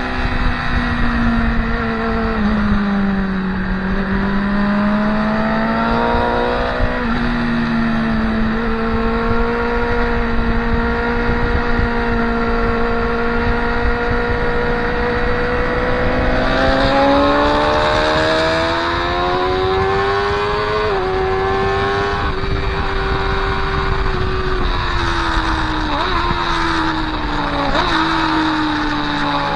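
Motorcycle engine heard onboard at track speed over steady wind rush: the revs fall, hold, then climb again with sharp steps from gear changes, and fall once more near the end with quick blips on the downshifts.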